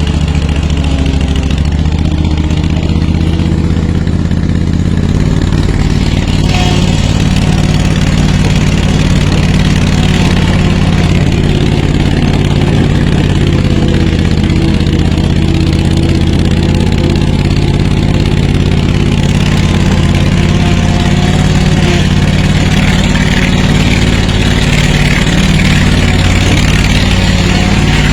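Kohler 25 hp Command V-twin engine of a Steiner zero-turn mower running steadily.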